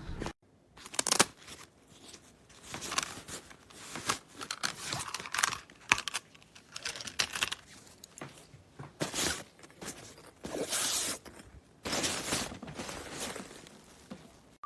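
Rustling and crinkling of a fabric pet travel bag and its contents, in irregular bursts about once a second.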